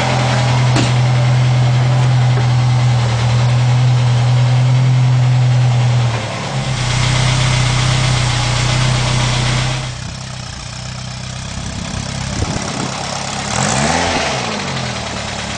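Peugeot 5CV's small four-cylinder engine running with a steady note, which changes about six seconds in and drops away a few seconds later; near the end the pitch rises and falls briefly.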